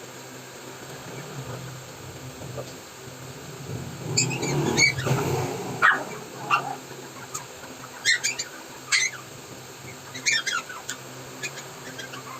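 Pomeranian puppy whimpering in short, high squeaks, some sliding in pitch, from about four seconds in, over a steady low hum. A louder rush of noise comes with the first squeaks.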